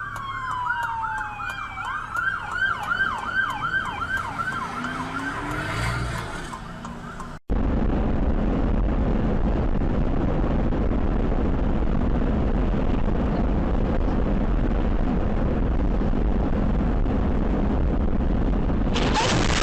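Emergency-vehicle siren in a fast yelp, its pitch sweeping up and down about three times a second. It stops suddenly about seven seconds in and is followed by a steady, loud rushing noise that lasts until near the end.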